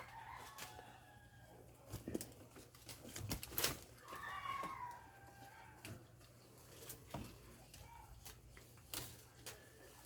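A rooster crowing about four seconds in, with chicken calls near the start and several sharp knocks in between.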